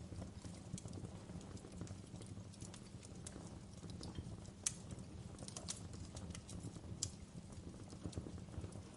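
Wood fire burning in a fireplace: a steady low rumble of flames with irregular sharp crackles and pops, the loudest pop about halfway through and another near the end.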